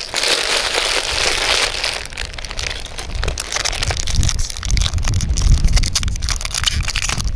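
Foil Pokémon booster-pack wrapper crinkling and being torn open, loudest in the first two seconds, then scattered crackles as the wrapper and cards are handled.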